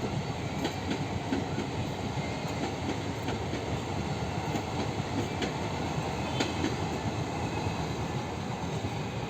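A train running: a steady rumble of wheels on the track, with faint, scattered clicks.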